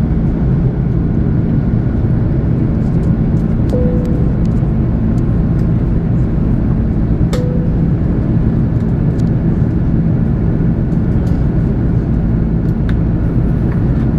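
Steady cabin noise inside an Airbus A330 airliner in flight: a loud, even drone of engines and airflow. Two short, faint tones sound about four and seven seconds in.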